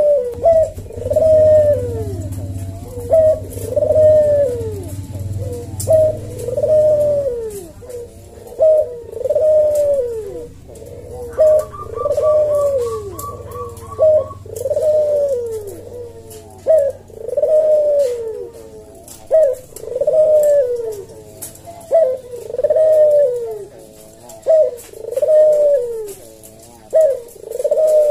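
Barbary dove (puter) cooing over and over, a short note then a longer falling coo, about every second and a half. About halfway through, a brief fast high trill joins in for about three seconds.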